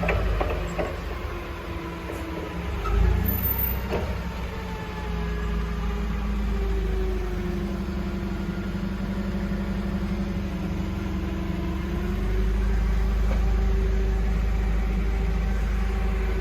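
Vehicle engine running steadily, its pitch slowly rising and falling, with a single low thump about three seconds in.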